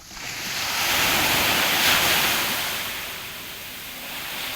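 Sea wave breaking and its surf rushing in, loudest about one to two seconds in and then fading, with a smaller swell near the end.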